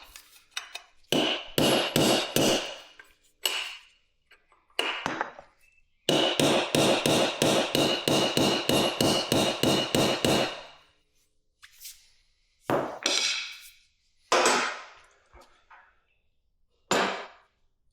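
Hammer blows in quick runs of about four to five strikes a second, with a ringing note over the longest run, then a few single blows near the end.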